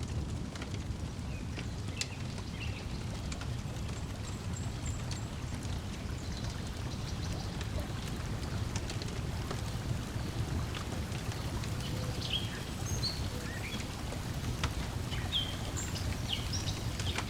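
Lakeside nature ambience: a steady low wash of lapping water, with the sharp crackles and pops of a wood fire and short bird chirps, which come more often in the second half.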